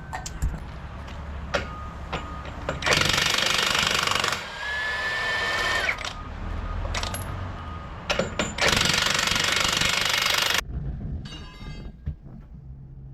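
Pneumatic impact wrench hammering in two bursts, about a second and a half and then two seconds long, working on truck wheel nuts. Scattered clicks and knocks fall between the bursts.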